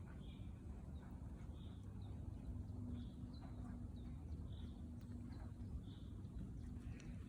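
A bird repeating one short, high call about five times, roughly every second and a half, over a faint steady low rumble.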